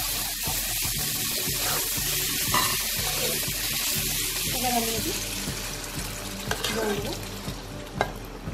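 Spice paste and potato cubes sizzling in hot oil in a wok while a metal spatula stirs and scrapes, then water poured into the pan from about five seconds in, the sizzle dying down under the stream, with a couple of spatula knocks against the pan near the end.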